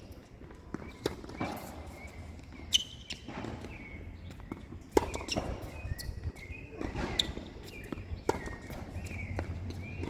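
Tennis play on court: footsteps with sharp, irregular knocks of the ball being hit and bouncing, the loudest about three and five seconds in, among short high squeaks.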